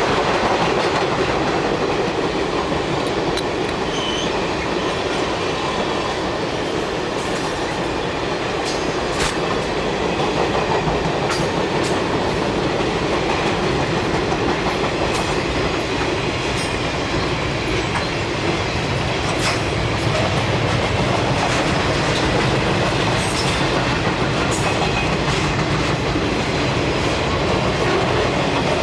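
Circus train's passenger cars and flatcars rolling steadily past: a continuous rumble of steel wheels on rail, with scattered sharp clicks and brief high wheel squeaks.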